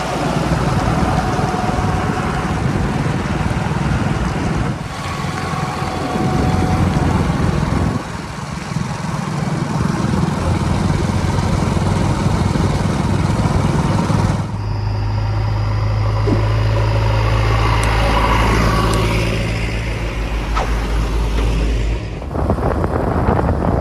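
Heavy diesel vehicle engines running, heard through several abruptly spliced shots. About halfway through, the sound settles into a steady deep engine hum, then changes again near the end.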